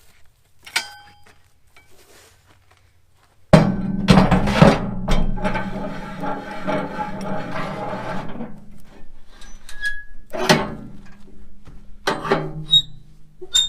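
Heavy metal clank about three and a half seconds in, ringing on and dying away over several seconds, then a few more sharp knocks near the end over a low steady hum: steel pallet forks being fitted to a small tractor.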